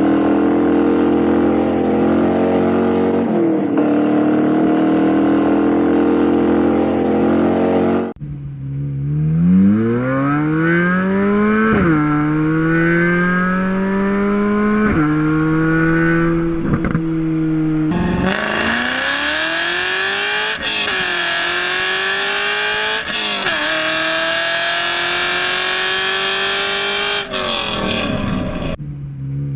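Corvette Z06 V8 engine in three spliced clips: first a steady engine note, then two full-throttle accelerations where the pitch climbs and drops back at each upshift, three shifts in each run.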